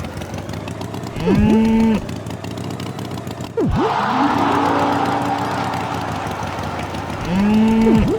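Cartoon cow mooing twice, each moo short and rising then held, about six seconds apart. Between the moos comes a steady, engine-like rumbling hiss with a falling tone, like a farm vehicle running.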